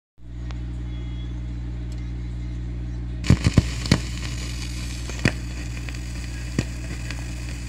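Record surface noise from a dub plate before the music starts: crackle and hiss with a handful of sharp pops, over a steady low hum. The hiss gets louder about three seconds in, with a quick cluster of loud pops.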